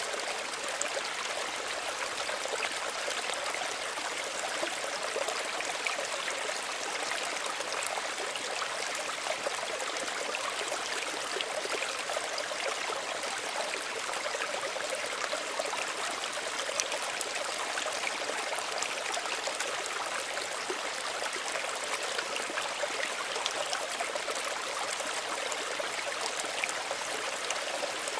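Small stream running over stones, a steady even babble with small trickling splashes, unchanging throughout.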